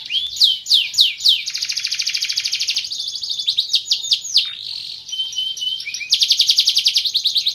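Van Hesterling canary singing: loud downward-sweeping whistled notes about three a second, breaking into a fast, even trill, then more sweeping notes and a second fast trill near the end.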